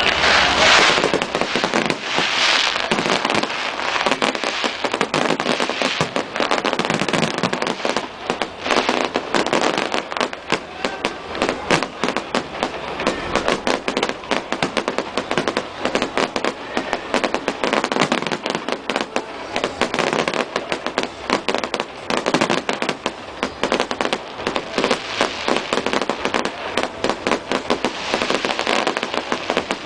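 Fireworks display: a dense, unbroken run of bangs and crackling pops, many bursts overlapping with hardly a pause.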